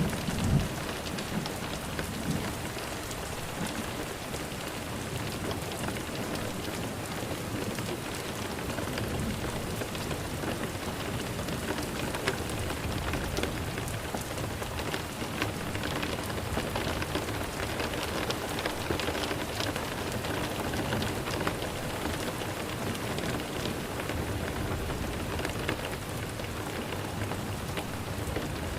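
Steady rain falling, an even hiss with many separate drop hits, and a brief low thump right at the start.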